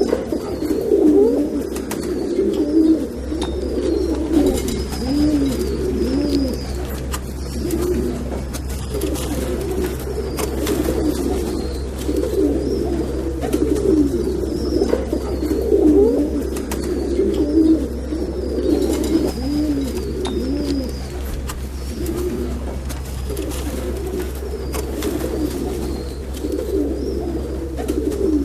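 Several domestic pigeons cooing on and off, their calls overlapping, with faint high chirps above them and a low steady hum underneath.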